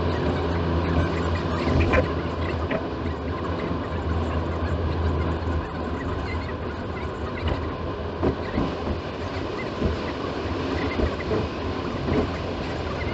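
Rumbling road and engine noise of a moving car, heard from inside the cabin, with a low hum that drops away about six seconds in and a few light knocks.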